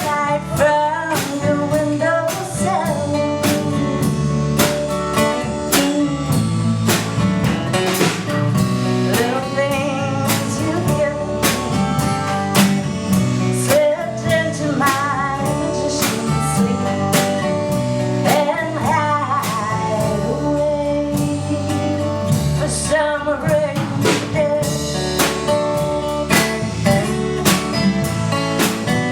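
A live band playing a slow country-blues song: strummed acoustic guitar over a drum kit keeping a steady beat, with a melody line that bends and slides in pitch.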